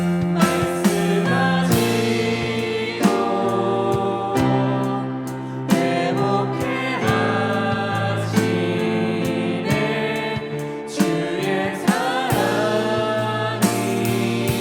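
Contemporary Christian worship music: instruments playing held chords that change every second or two, with voices singing and regular sharp hits marking the beat.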